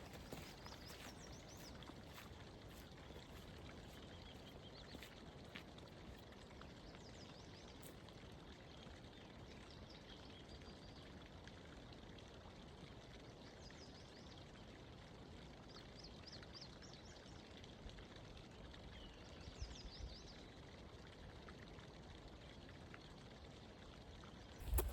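Faint, steady rush of a mountain stream, with brief high bird chirps every few seconds and a single thump near the end.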